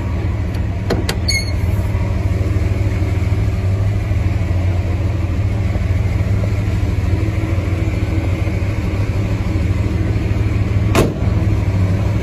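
Chevrolet 454 big-block V8 engine running steadily at idle, a low, even rumble. A sharp click comes about a second in and another near the end.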